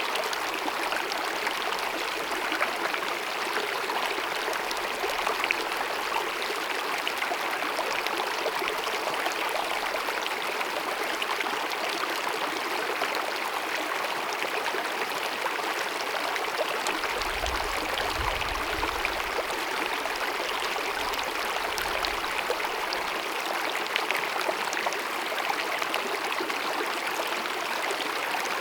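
Small mountain meadow stream babbling and cascading over rocks, a steady rushing and gurgling of water.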